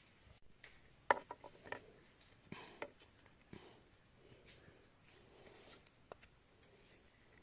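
Faint handling noises: a few light clicks and knocks, the sharpest about a second in, with soft rubbing between them.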